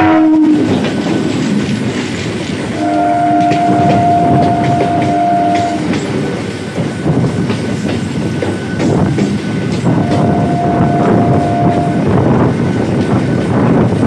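Indian Railways electric multiple unit (EMU) local trains running side by side at close range: steady rumble and wheel clatter. A train horn cuts off about half a second in, a two-tone horn blast of about three seconds starts about three seconds in, and a shorter horn blast of about two seconds comes about ten seconds in.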